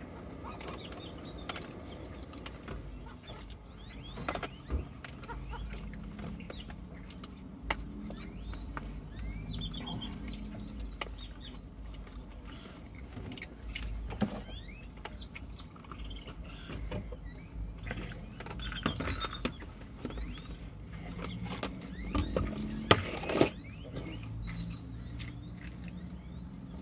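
Close-up eating sounds of fried chicken being chewed: wet clicks and lip-smacking scattered throughout, with a louder cluster of clicks near the end. Birds chirp briefly outside now and then.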